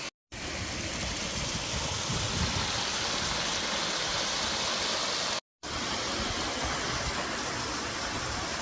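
Steady rushing of a waterfall, broken twice by a brief total silence where the recording cuts, just after the start and about five and a half seconds in.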